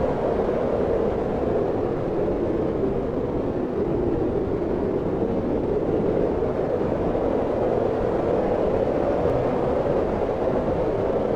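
Steady wind noise: an even, low rushing with no gusts or breaks.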